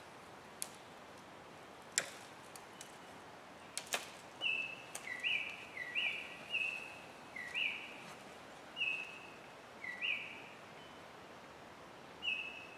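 A bird calling with a run of short clear notes that switch between a higher and a lower pitch, roughly one every half second, starting about four seconds in, with one more note near the end. A few sharp clicks come before it, the loudest about two seconds in.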